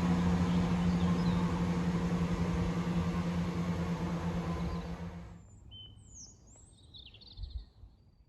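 Class 170 Turbostar diesel multiple unit running past with a steady engine drone. The drone fades and cuts off about five seconds in, leaving a few faint bird chirps.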